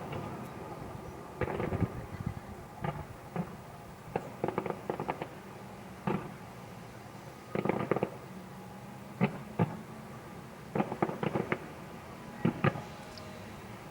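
Fireworks display bursting overhead in quick groups of sharp bangs and crackles, a fresh cluster every second or two.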